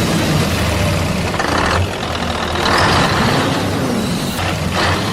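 A vehicle engine running steadily, with short bursts of hiss about a second and a half in, around three seconds in, and near the end.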